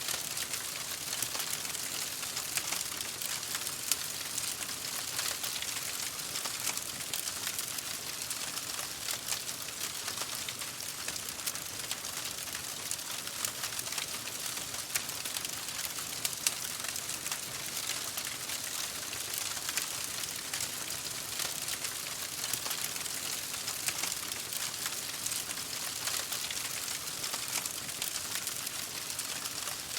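Campfire crackling: a dense, steady run of small pops and snaps over a hiss, with a few louder pops.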